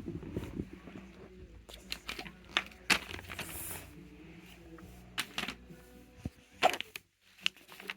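Fidget toys being handled and set down: scattered clicks, taps and rattles of small plastic objects, with a brief rustle in the middle.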